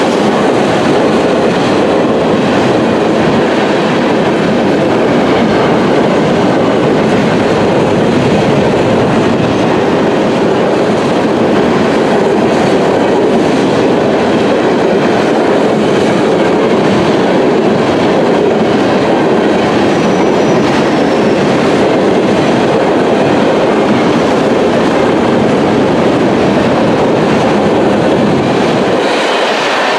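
Ferromex freight train of boxcars, tank cars and covered hoppers passing close at speed: a loud, steady rush of steel wheels running on the rails.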